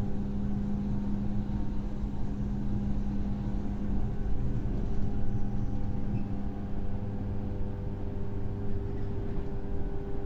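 Running sound of a JR 103-series electric train's motor car at a steady speed between stations: a steady hum from its MT55 traction motors and gearing over rail rumble. A high hiss fades out about halfway through.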